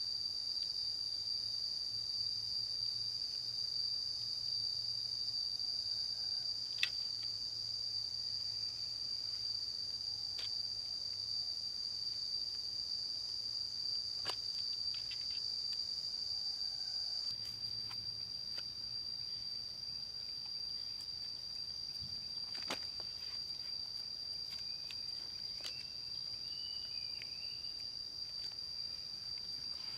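A steady, high-pitched drone of insects such as crickets, with a few sharp clicks or knocks spaced several seconds apart.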